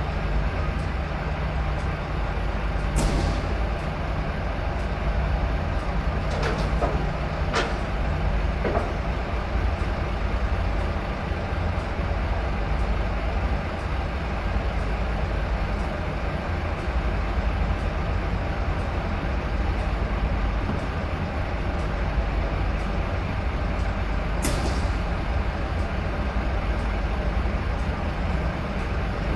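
Scania S500 truck's diesel engine running with a steady low rumble. Short hisses of air break in a few times, near 3, 7 and 24 seconds.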